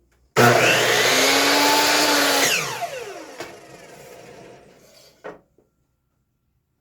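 Electric power saw switched on, running at full speed for about two seconds, then switched off and spinning down with a falling whine that fades over a few seconds.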